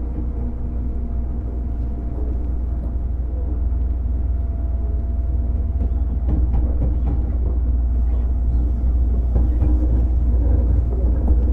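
Running noise of a JR 205 series electric train motor car with MT61 externally fan-cooled traction motors, heard from inside the car: a steady low rumble of motors and wheels on rail with a faint steady hum, gradually growing louder.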